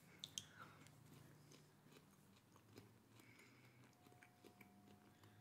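Near silence: faint chewing of a soft piece of boiled Queensland arrowroot bulb, with two small clicks just after the start.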